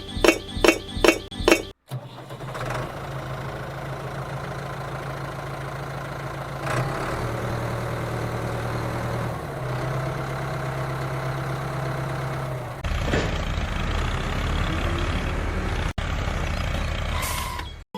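A few sharp clinks, then a steady engine-like drone from a mini tractor, shifting in pitch at several abrupt cuts.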